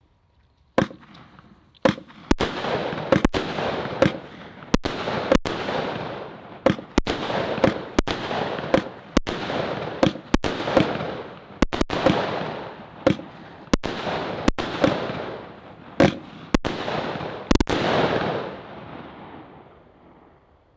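Consumer firework cake (a 16-shot Celtic Fireworks cake) firing its shots in quick succession, a sharp bang roughly every half second to second, each followed by a fading rush of noise. The shots stop about three-quarters of the way through and the last noise dies away near the end.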